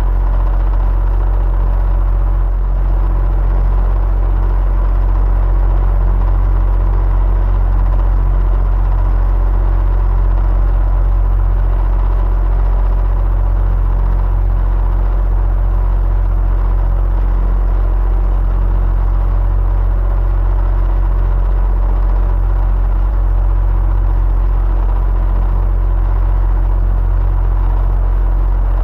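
Electric fan running steadily: a deep, even hum with faint steady tones above it.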